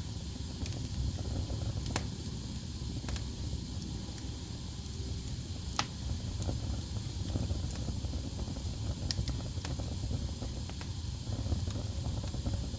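Wood fire burning in a fireplace: a steady low rumble and hiss of the flames with scattered sharp crackles and pops from the burning logs, the loudest at about two and six seconds in.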